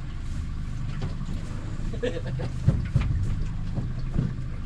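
Boat motor running steadily at low speed, a low even hum, with a couple of short knocks about two-thirds of the way through.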